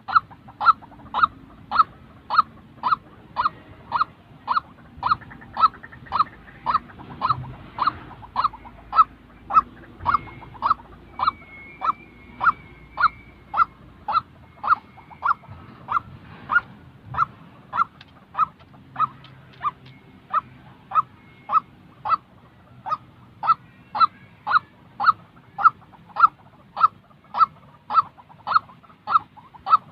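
White-breasted waterhen calling: one short, downward-slurred note repeated steadily about twice a second. Faint higher twittering from another bird comes in briefly around the middle.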